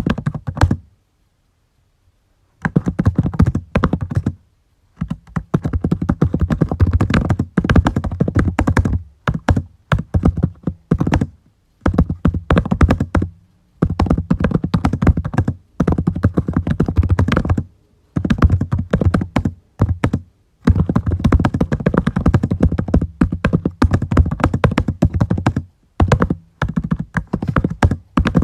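Typing on a computer keyboard: runs of rapid keystrokes broken by short pauses, the longest lasting nearly two seconds about a second in.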